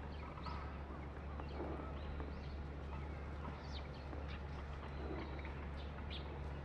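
A feeding flock of Japanese grosbeaks giving many short scattered calls, over a steady low hum.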